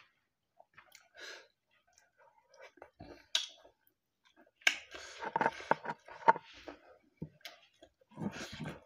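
Close-up mouth sounds of eating buffalo curry with rice: scattered wet clicks and lip smacks, then, from about four and a half seconds in, a run of louder chewing and smacking.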